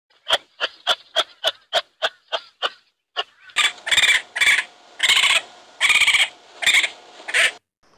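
A kangaroo clucking: about nine short clicks at roughly three a second, fading out. Then a raccoon gives several rough, raspy cries in quick succession.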